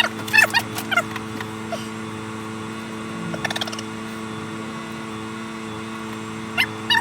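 Bird calls in quick series of short wavering notes in the first second, a brief burst midway and again near the end, over a steady low hum.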